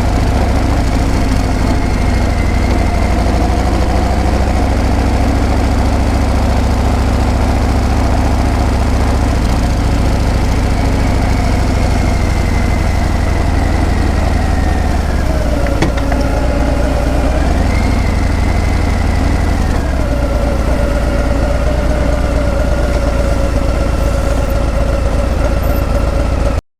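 Harley-Davidson Breakout's V-twin engine and exhaust under way, a steady low rumble. About halfway its note drops, climbs back a couple of seconds later, then settles lower; the sound cuts off abruptly at the end.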